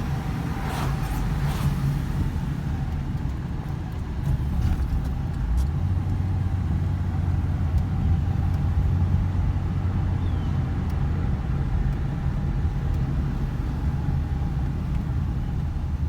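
Cabin sound of a 2005 Ford Explorer Sport Trac on the move: its 4.0-litre V6 engine and road noise running steadily, a little louder from about four seconds in. A few short swishes in the first two seconds.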